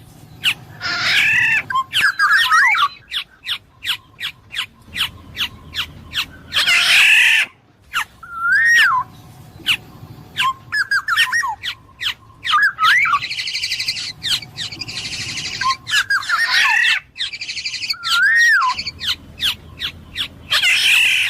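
Black-naped oriole (kepodang emas) singing: short fluty whistled phrases that bend up and down, mixed with harsher raspy calls, with many sharp clicks between them.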